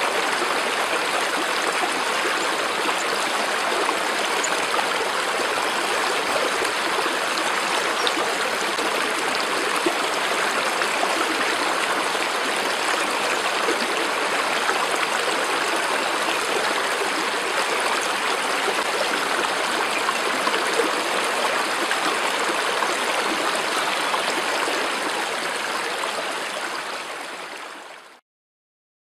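Steady rushing of a flowing stream, fading out near the end.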